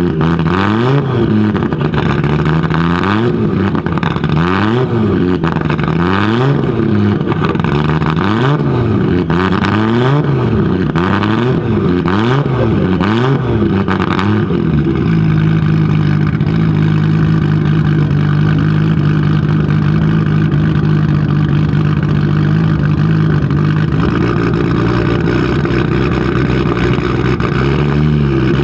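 Audi Sport Quattro S1 E2's turbocharged inline five-cylinder engine being revved in repeated blips, rising and falling about every two seconds. About halfway through it settles to a steady idle, and the revving starts again at the very end.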